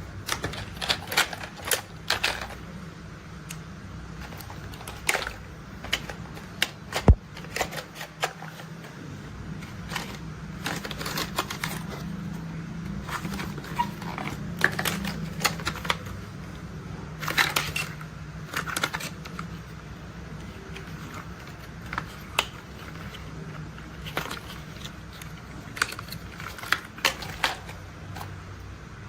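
Plastic toy construction vehicles being handled, tapped and rolled: irregular clicks and taps, the sharpest knock about seven seconds in, over a low steady rumble.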